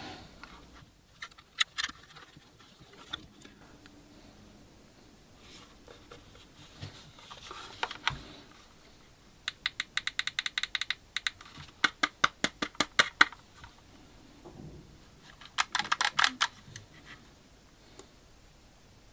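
Hands handling a small device and its packaging: scattered taps and clicks, then three runs of rapid, evenly spaced clicks, the loudest in the second half.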